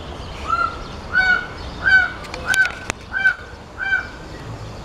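A bird calling in a steady series of six short, evenly spaced calls, about three every two seconds, with a couple of sharp clicks between them.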